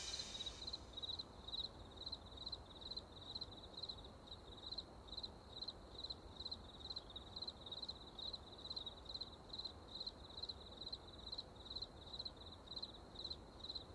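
Faint cricket chirping, an even run of short high chirps at about three a second.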